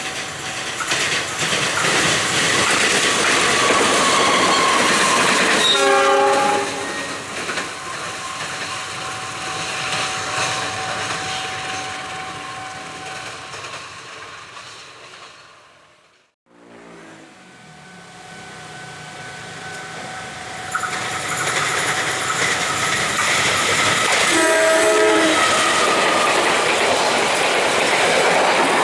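A train passing close by with loud rolling rumble and wheel clatter on the rails, its horn sounding briefly about six seconds in. The sound drops away to near silence around the middle, then a second train passes with the same clatter and a short horn blast near the end.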